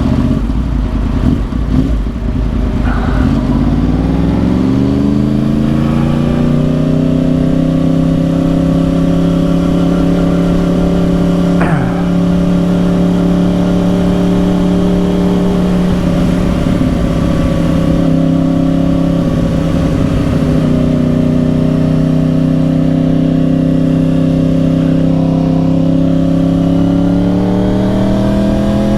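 2010 Yamaha R1's crossplane inline-four through dual Yoshimura exhausts, heard while riding: the engine note climbs over a few seconds as the bike accelerates, holds steady at a cruise, then climbs again near the end.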